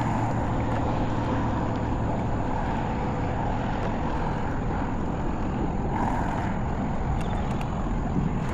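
Steady rush of wind and water around a kayak under way, with a faint steady hum underneath.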